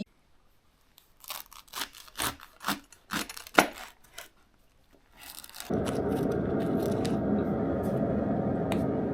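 Plastic food packets being torn and handled, a run of sharp crackles and clicks. About six seconds in, a steady low rushing noise starts and holds.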